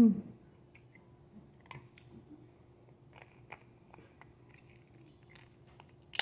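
Close-up mouth sounds of a person chewing and biting crab meat, with faint small crunches and clicks. A brief, loud vocal sound that wavers in pitch comes at the start, and a sharp noise comes near the end.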